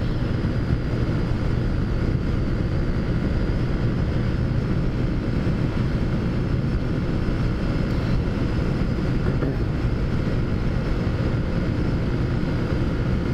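Taotao Zummer 50cc scooter engine running at a steady speed under way, mixed with wind and road noise.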